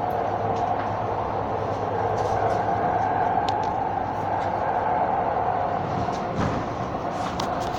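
Light-rail train running, heard from inside the car: a steady whine over continuous rumbling wheel and rail noise, with a few faint clicks.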